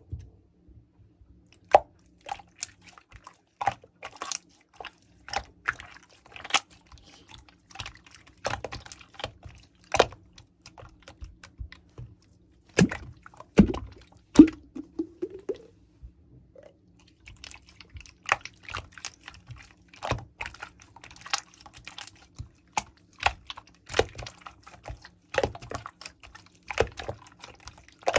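Irregular clicks and taps like typing on a keyboard. About halfway there are two louder knocks, followed by a short rising squeak and a brief pause.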